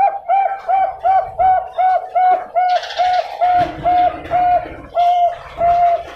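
Bangkok-type perkutut (zebra dove) cooing: a rapid, even series of short notes, about three a second, that spaces out slightly near the end.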